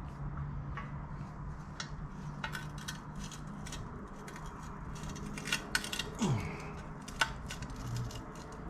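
Small metal parts and tools clinking and tapping during hand assembly work, with scattered sharp clicks that come thicker in the middle and a short falling scrape about six seconds in. A steady low hum runs underneath.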